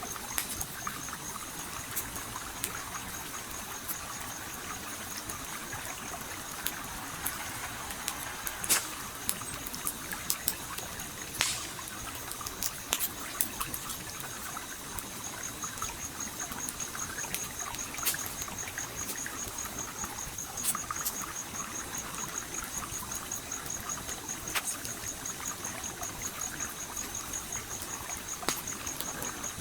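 A flowing stream trickling and gurgling steadily, mixed with a campfire's wood crackling in scattered sharp pops. A high, rapidly pulsing trill grows clearer about halfway through.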